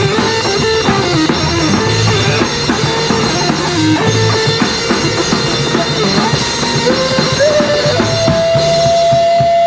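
Live punk rock band playing an instrumental break: a steady drum kit under distorted guitars and bass, with a melodic lead line that settles on one long held high note from about eight seconds in.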